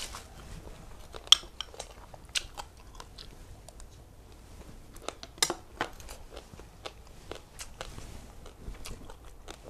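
Close-miked eating sounds: chewing with scattered crisp crunches and mouth clicks. The sharpest crunch comes about a second in and another about five and a half seconds in.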